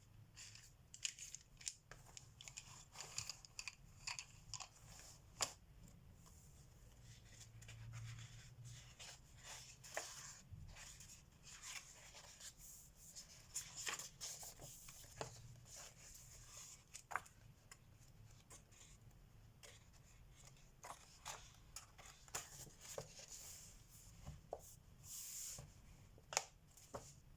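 Coloured pencil scratching across paper in short, irregular strokes, faint and close, with scattered light clicks and taps throughout.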